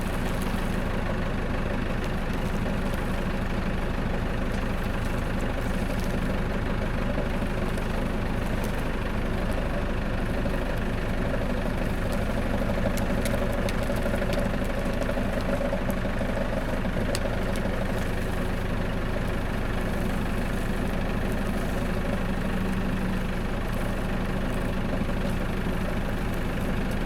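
Tractor engine running steadily at a low, even speed while holding a load on its forks.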